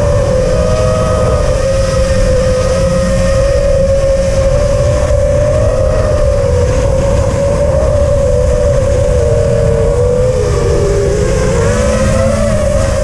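5-inch FPV quadcopter's BrotherHobby brushless motors spinning Dalprop Cyclone 5046 props, a loud steady whine whose pitch rises and falls with the throttle and dips briefly near the end, over a constant rumble of wind on the microphone.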